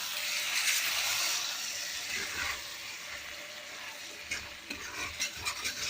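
Chicken pieces sizzling in hot oil and their own juices in a kadai, fairly well cooked; the hiss is strongest at first and slowly fades. From a little past four seconds in, a spoon clicks and scrapes against the pan as the chicken is stirred.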